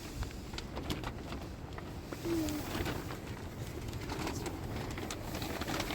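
A bird gives one short, slightly falling call about two seconds in, over scattered light clicks and knocks.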